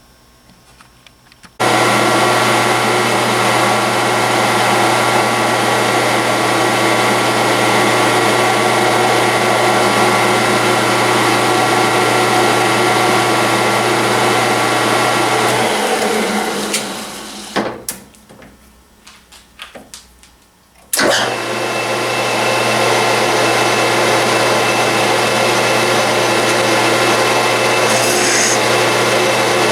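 Electric motor of a small shop machine tool starting about two seconds in and running steadily. About 16 seconds in it winds down and stops, then starts again abruptly about 21 seconds in and runs on.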